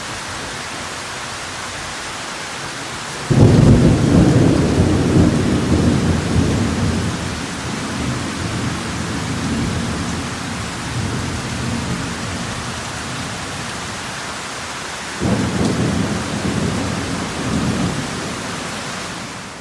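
Heavy rain falling steadily, with two rolls of thunder: a loud one breaking suddenly about three seconds in and rumbling for several seconds, and a second starting about fifteen seconds in.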